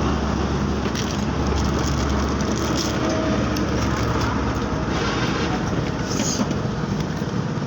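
Honda CD 70's small single-cylinder four-stroke engine running steadily.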